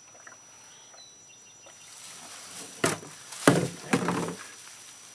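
A dog struggling while being held for a wash: a sharp knock about three seconds in, then two louder scuffling bursts.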